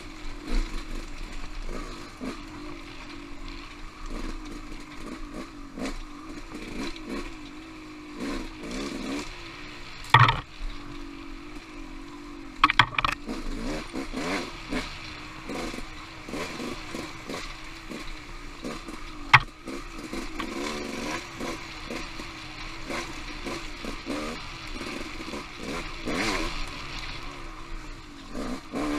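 Off-road motorcycle engine running on a trail ride, its revs rising and falling constantly as the throttle is worked. Sharp knocks and clatter break in about ten seconds in, a cluster near thirteen seconds, and a loudest single knock near nineteen seconds.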